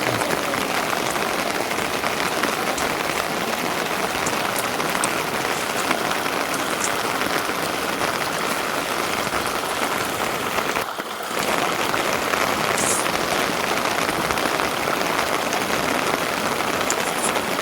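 Steady rain falling, an even hiss that briefly drops away about eleven seconds in.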